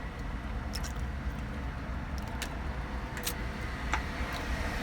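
Steady low rumble of a car or nearby traffic, with a few sharp clicks and crinkles from eating and handling fast-food packaging.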